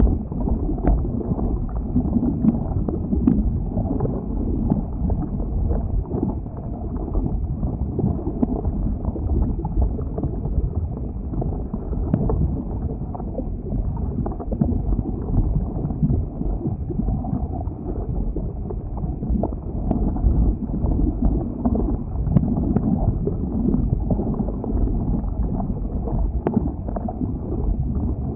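Flowing lava: a steady, low, crackling noise with occasional sharp clicks.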